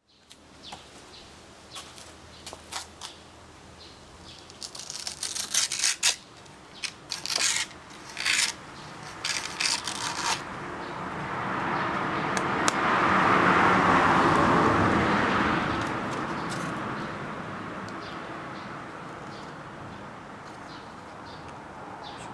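Small homemade disc sander running at low speed with a faint steady motor hum. From about four to ten seconds in, a workpiece is pressed to the disc in a series of short scratchy grinding bursts. Around the middle a broader noise swells and then fades.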